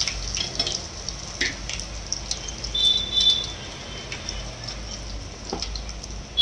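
Garlic cloves and mustard seeds sizzling in hot oil in an aluminium pot, a tempering being fried until the garlic browns, with a steady hiss and scattered small pops and crackles. A short high-pitched tone sounds about three seconds in.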